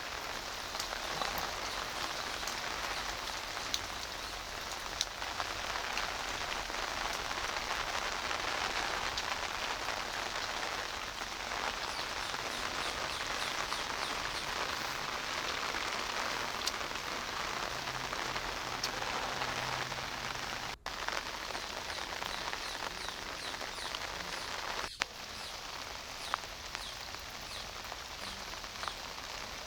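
Steady rain falling, with individual drops ticking now and then. The sound breaks off for an instant twice in the second half.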